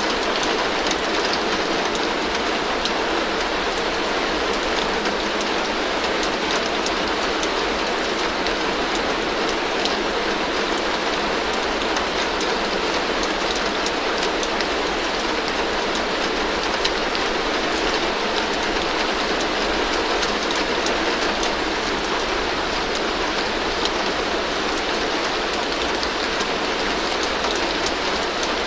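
Heavy rain falling steadily on a tin roof: a dense, even hiss of countless drops striking metal, with no letup or change.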